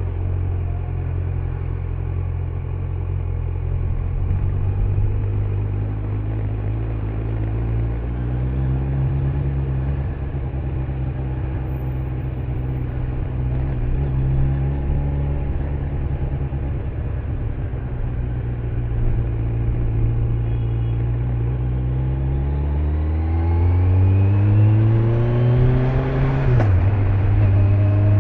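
Kawasaki Z900's inline-four engine through its stock exhaust, running under way and rising and falling gently in pitch. Near the end it revs up in a long rise, then its pitch drops sharply with a click.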